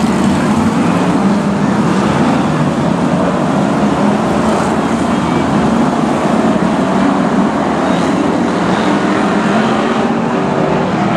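Brisca F1 stock cars' V8 engines running together on the track, a steady wall of engine noise with no single car standing out.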